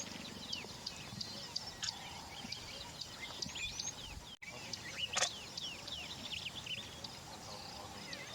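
Many small birds chirping and calling over a steady outdoor background, with a couple of sharp knocks and a brief cut-out in the sound partway through.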